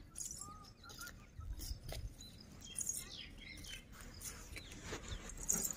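Faint birds chirping over quiet outdoor ambience, with a few soft scattered taps.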